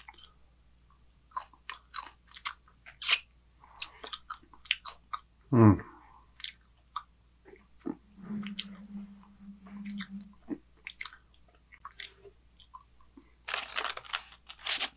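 Close-miked eating: wet mouth clicks and crunchy bites as a man chews food. About six seconds in there is a short voiced sound falling in pitch. Near the middle comes a steady hummed 'mmm' held for about two seconds, and there is a brief rustle near the end.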